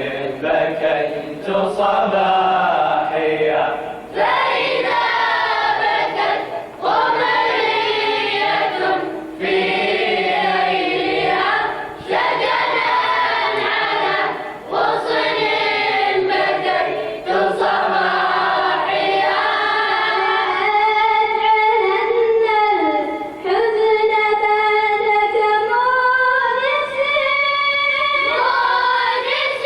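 A choir of voices singing an Arabic devotional lament (nasheed) in long held phrases, with brief pauses for breath between lines.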